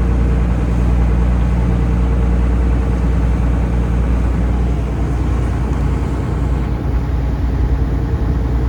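Taxi boat's engine running steadily, a loud, even low drone.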